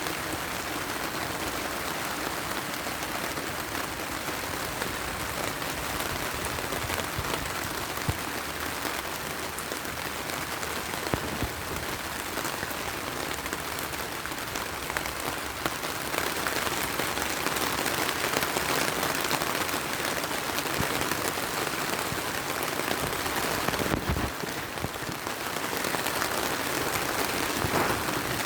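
Heavy rain falling steadily in a dense hiss, with a few sharp pops from a wood fire scattered through it.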